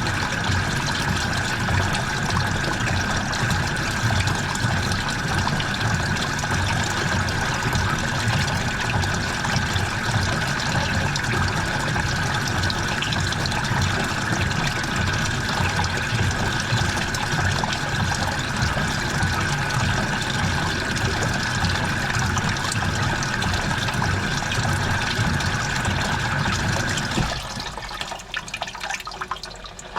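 Washing machine taking in water: a steady rush of water with a thin steady hiss-tone, which cuts off abruptly about 27 seconds in, leaving quieter trickling and dripping in the drum.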